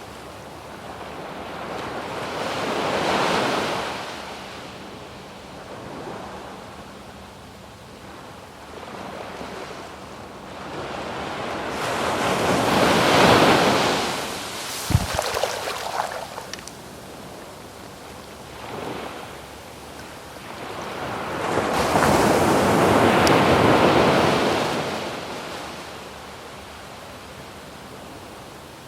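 Waves breaking on a sandy beach, three waves swelling and fading away about ten seconds apart. A brief sharp click comes just after the middle wave.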